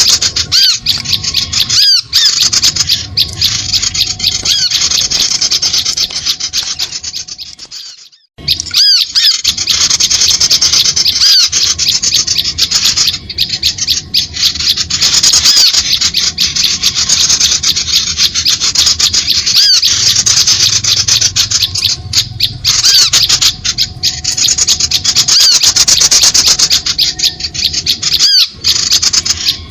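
Bird-lure recording of small birds calling: a dense, rapid, high-pitched chattering of quick chirps, played on and on to draw birds in. It breaks off for a moment about eight seconds in, then starts again.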